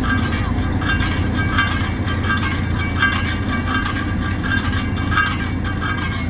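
Heavy road-paving machinery running: a steady diesel drone with frequent short metallic clanks and rattles, a couple or more each second.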